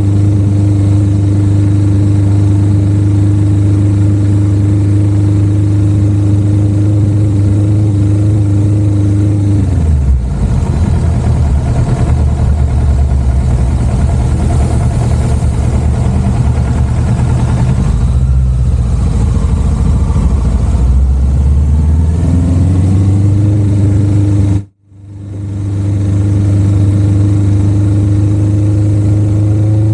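Motorcycle engine running at a steady pitch while cruising. About a third of the way in the pitch drops off as the bike slows, runs lower and uneven for several seconds, then climbs back up near the end. The sound cuts out for a split second shortly before the end.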